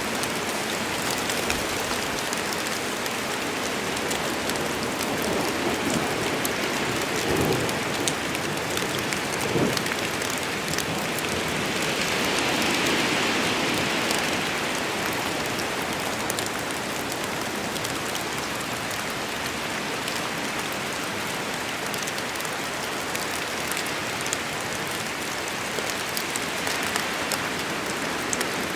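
Steady rain falling in a forest storm, with sharp close drops hitting among the even wash of rain. It grows louder for a couple of seconds about twelve seconds in.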